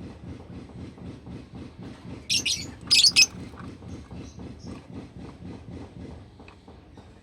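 Pet lovebird giving three short, shrill calls in quick succession a little over two seconds in, over a steady fast-pulsing background noise.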